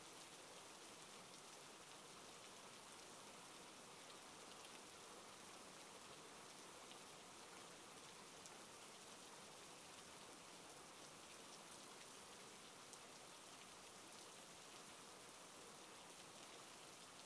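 Faint, steady rainfall: an even hiss of rain with scattered faint drop ticks.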